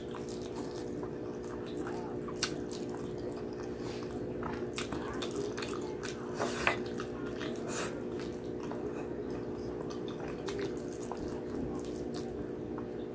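Close-up wet chewing and lip-smacking of a person eating braised pork hock and rice by hand, with irregular sticky smacks and clicks over a steady low hum.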